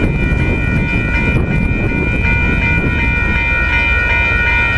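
Amtrak Pacific Surfliner passenger train running past at speed: a loud, steady rumble of wheels on rail, with several steady high tones ringing over it.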